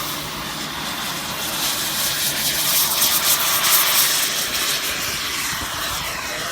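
Radio-controlled model airplane flying past, its motor and propeller whine growing loudest about halfway through, then dropping in pitch near the end as it passes and moves away.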